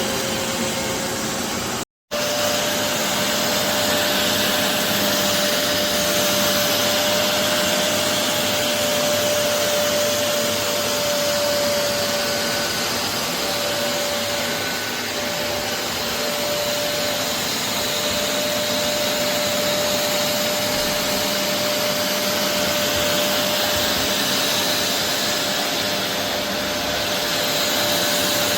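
BISSELL Revolution HydroSteam Pet carpet cleaner running: a steady, loud suction hiss with a constant motor whine. The sound cuts out completely for an instant about two seconds in.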